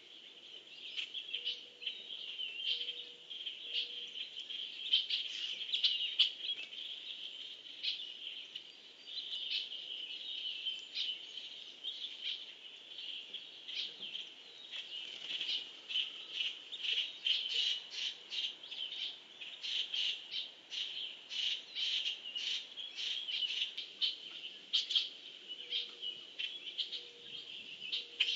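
Birds chirping and calling: a dense run of short, quick chirps over a steady high-pitched chorus, busier in the second half.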